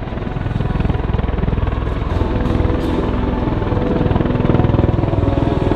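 MV-22 Osprey tiltrotor hovering in helicopter mode: its two proprotors beat with a rapid, steady pulsing over the whine of its two Rolls-Royce turboshaft engines.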